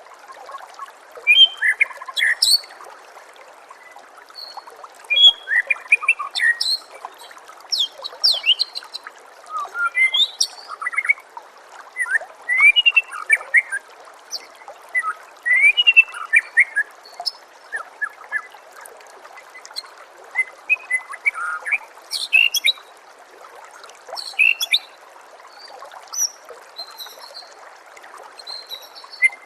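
White-rumped shama (murai batu) singing in rapid, varied phrases of short whistles and chirps, over a steady trickle of water.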